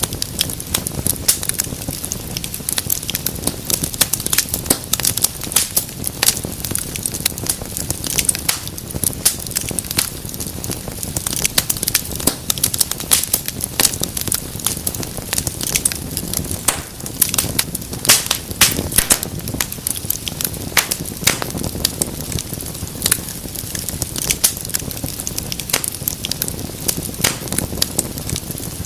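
Wood fire burning in a fireplace, crackling with many sharp irregular pops and snaps over a steady low rumble of the flames.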